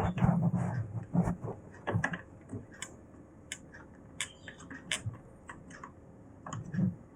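Scattered small clicks and taps of a precision screwdriver and screws on a laptop's screen assembly as the screws are tightened. A dog's bark trails off at the very start.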